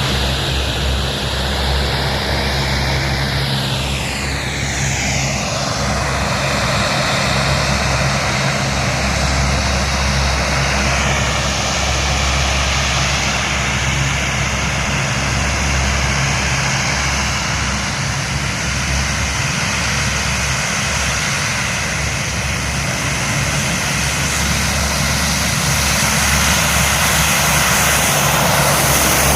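Aircraft engines running loudly and steadily as planes fly past, with the engine pitch sweeping down about four seconds in as one goes by.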